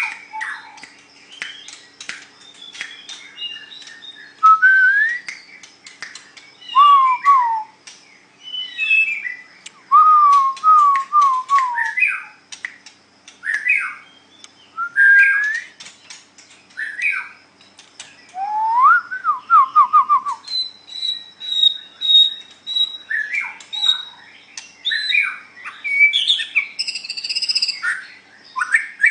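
White-rumped shama singing: a varied run of loud whistled phrases, rising and falling notes and quick descending trills, broken by sharp clicks. About two-thirds of the way through it holds one steady high whistle for a few seconds before going back to mixed phrases.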